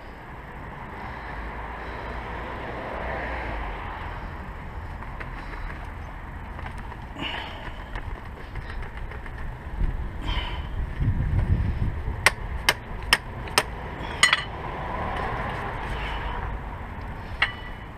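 Hand tools knocking and clinking on metal parts of a car's front wheel hub, with a run of about five sharp knocks a little under half a second apart about two-thirds of the way through, over a steady low rumble.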